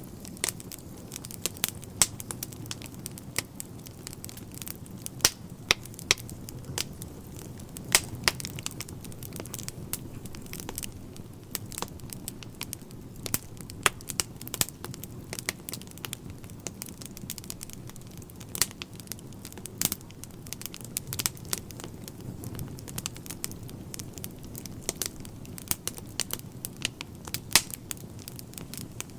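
Wood fire burning in a fireplace: a steady low rumble of flames with frequent irregular crackles and pops from the logs, some of them sharp and loud.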